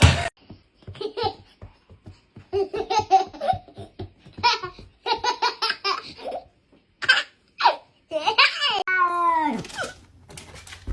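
A person laughing in repeated short bursts of giggles, with a long vocal sound falling in pitch about eight seconds in.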